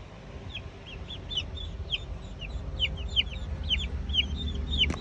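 Chickens cheeping: many short, high, falling chirps, several a second, over a steady low rumble.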